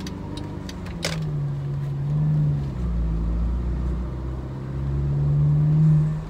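Mercedes C250 coupe's turbocharged four-cylinder engine heard from inside the cabin, pulling under throttle: its note rises, drops back, then rises again. A sharp click about a second in.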